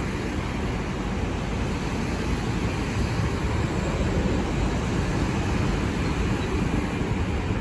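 Great Western Railway Class 802 train pulling into the platform, a steady low rumble that grows slightly louder partway through.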